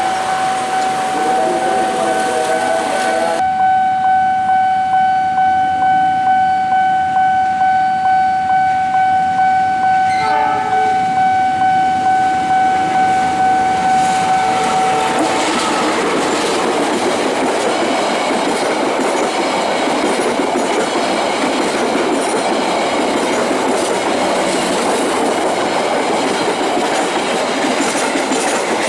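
A train horn holds one long steady note for about fifteen seconds while the wheels clack over rail joints in an even rhythm. When the horn stops, the loud rolling noise of the train passing close carries on.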